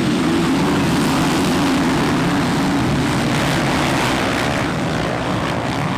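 A pack of motocross bikes racing at full throttle, many engines running together in a loud drone with wavering pitch.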